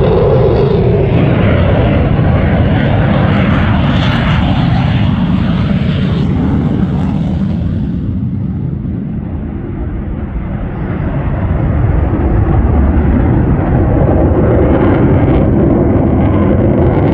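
Loud jet engine noise from Blue Angels F/A-18 Super Hornets flying past. The noise fades about halfway through, then builds again as a jet approaches.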